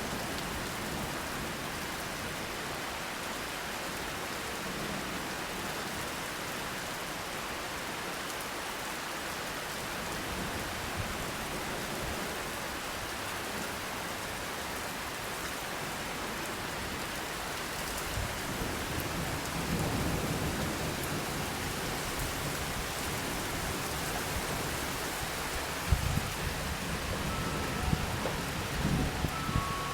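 Steady rain falling, with low thunder rumbling in twice in the second half, the later rumble carrying a few sharp cracks.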